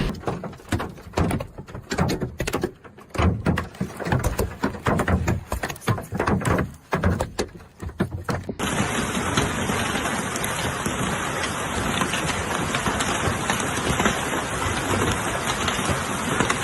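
Hailstones pelting hard surfaces in irregular loud hits for about eight seconds, then a sudden change to the steady hiss of a heavy downpour.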